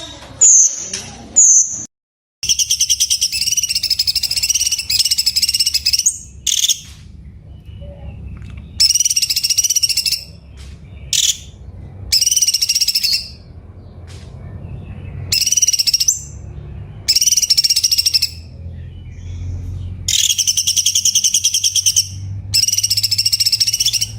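Cucak cungkok bird singing. A few short high notes are followed by a series of rapid, buzzy rattling phrases, each one to three seconds long, with short pauses between. A low hum runs underneath.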